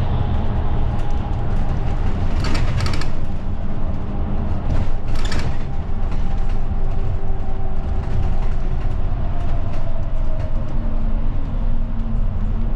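Ride inside a route bus under way: steady, loud rumble of the engine and road noise, with faint engine tones slowly shifting in pitch. Two short bursts of hiss or rattle cut in about two and a half seconds and five seconds in.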